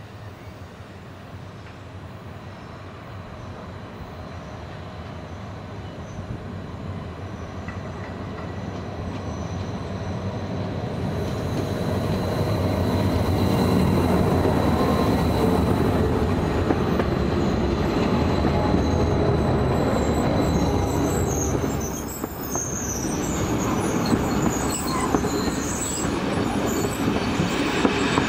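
Red Rhaetian Railway electric passenger train approaching, its rumble growing steadily louder over the first dozen seconds. Its carriages then roll past close by with a loud wheel rumble, and high wheel squeals ring over it in the second half.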